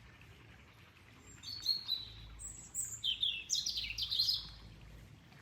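A songbird singing a quick run of chirps and short whistled notes, some falling in pitch, for about three seconds from a second and a half in, over a faint steady background hiss.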